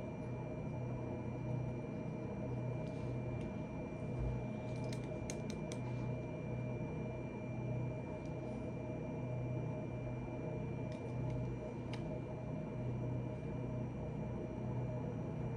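Steady low background hum with a few light clicks: a quick run of four about five seconds in, and two more around eleven and twelve seconds.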